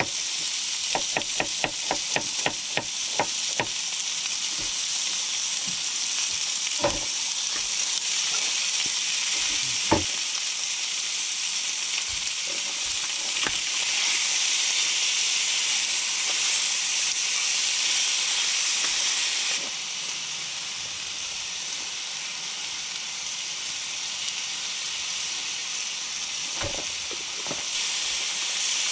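Pork belly slices sizzling steadily as they fry, the sizzle growing louder for a few seconds midway and then easing. In the first few seconds a quick run of knocks, about four a second, sounds over it, with a few single clunks later.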